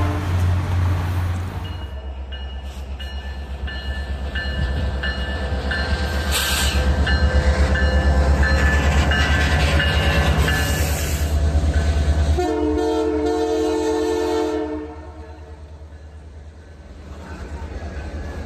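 A train running past with a heavy low rumble and a string of short high tones repeating about twice a second, then a train horn sounding one blast of about two seconds near two-thirds of the way in.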